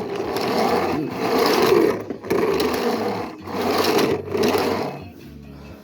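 Small electric motor and gears of a remote-control toy truck whirring in bursts about a second long as it races, dropping away near the end.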